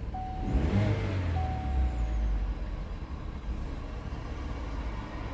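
2018 Chevrolet Cruze engine: a louder low rumble starting about half a second in, settling into a steady running sound after about two seconds. A steady thin tone sounds over the first two seconds or so.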